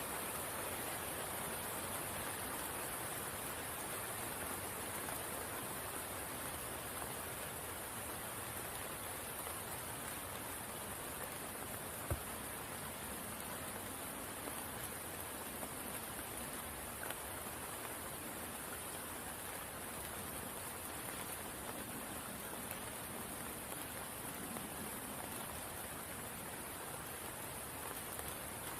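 Steady rain falling on a spring pool, an even hiss that does not change, with a steady high-pitched hiss layered over it. One sharp tick about twelve seconds in.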